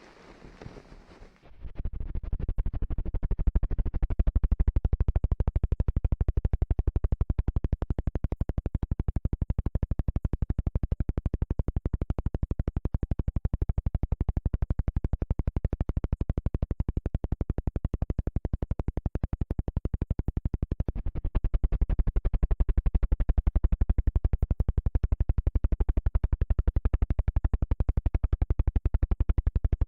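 Soft hiss, then from about a second and a half in, rapid, evenly spaced ASMR clicking close to the microphone, which gets louder about two-thirds of the way through.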